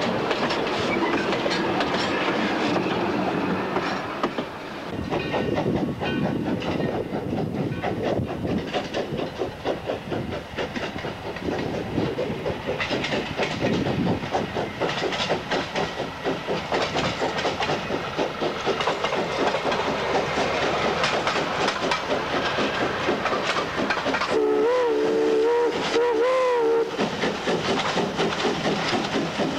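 Railroad car wheels rolling close past and clicking over the rails for the first few seconds. Then a steady rhythmic mechanical beat. About 25 s in, a steam locomotive's whistle blows for about two and a half seconds, wavering slightly in pitch.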